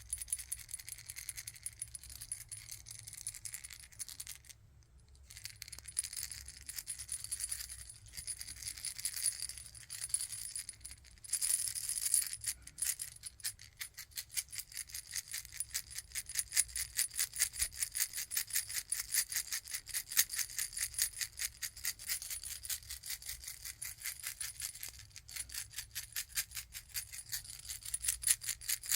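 Fast, light clicking and rattling of small hard objects handled close to the microphone, about six clicks a second, with a brief pause about four and a half seconds in.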